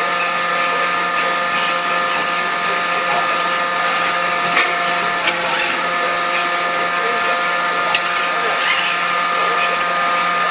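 Steady machinery drone in a forging workshop: a continuous noisy hum carrying several steady tones, with a few faint knocks. No heavy hammer blows are heard.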